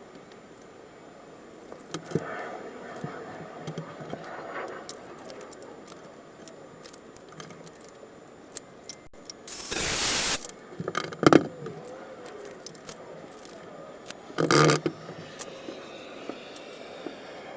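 Clinks, scrapes and rattles of tools or parts being handled during plumbing and wiring work. A loud burst of noise lasting about a second comes a little past the middle, and a shorter one comes near the end.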